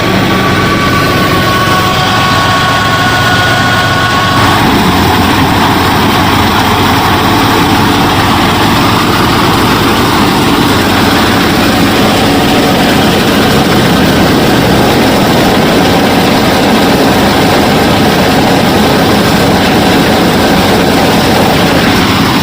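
A DIY mini combine harvester's motor and mechanism running steadily and loudly, with a high two-tone whine that stops about four seconds in.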